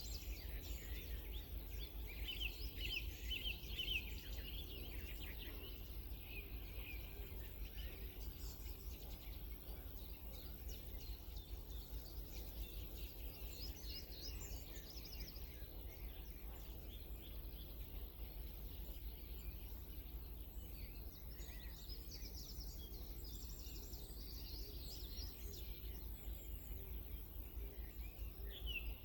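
Wild songbirds singing in short bursts of rapid chirps and trills, separated by pauses of several seconds, over a steady low rumble.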